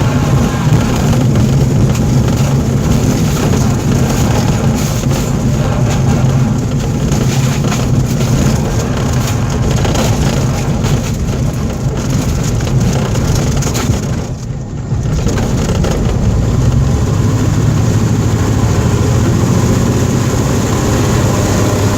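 Cessna 207's single piston engine running steadily, with a short drop in level about fifteen seconds in.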